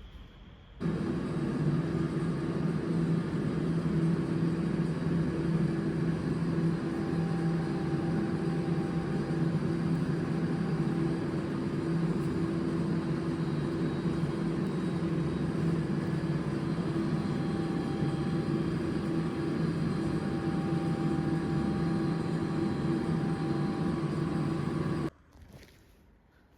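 Steady vehicle running noise: a rumble with a constant low hum. It starts abruptly about a second in and cuts off abruptly near the end.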